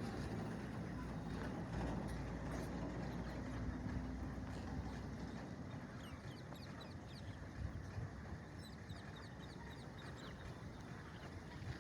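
Pet parakeets chirping in many short, rapid calls, most busily in the second half, over a steady low rumble.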